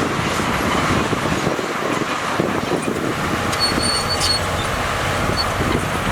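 Diesel engine of heavy earthmoving machinery running steadily, a dense rumble. A brief faint high tone sounds a little past halfway.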